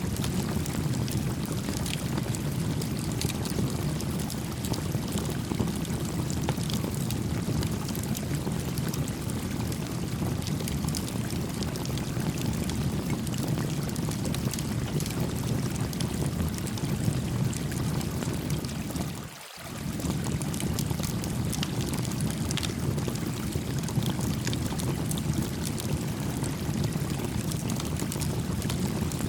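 A brook running steadily in a low, full rush, with faint scattered crackles from a small campfire. The sound drops away briefly about two-thirds of the way through, then returns.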